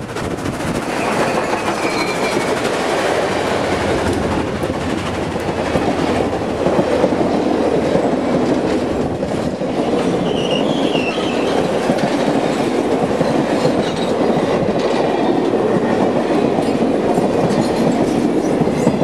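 Streamlined steam passenger train's cars passing close by at speed: a steady rumble and clatter of steel wheels on the rails, with a few faint high squeals about a second in and again around ten seconds.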